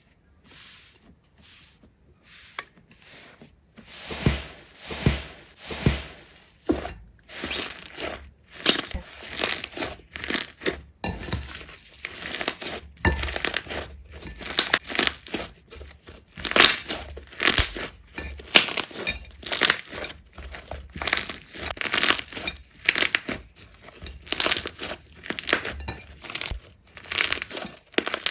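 Slime being pressed and squeezed by hand, in repeated short noisy bursts about one or two a second, starting a few seconds in after a quiet start.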